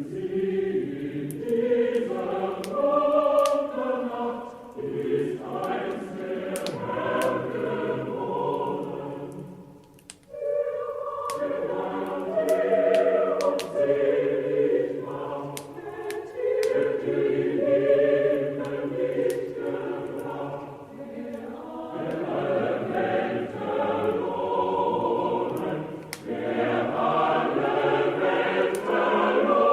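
A choir singing a Christmas song in long phrases, with a brief break about ten seconds in, over the scattered crackle of a wood fire.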